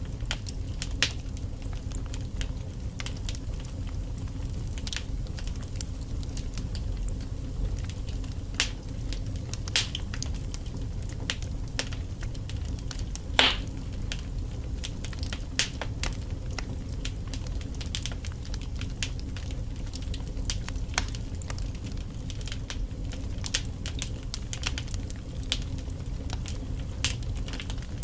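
Logs burning in a fireplace, crackling with irregular sharp pops over a steady low rumble, with one louder pop about halfway through.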